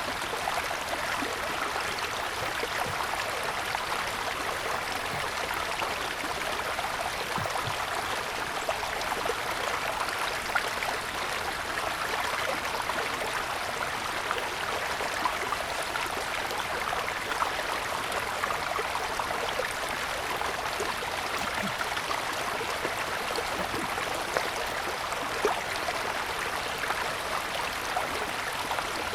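Mountain stream running steadily over stones in a continuous rush of water, with a few brief splashes standing out now and then.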